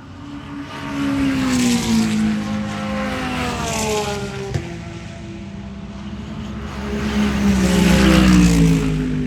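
Race cars passing at high speed, one after another. Each engine note drops in pitch as the car goes by: the first about two seconds in, the second, louder one near the end.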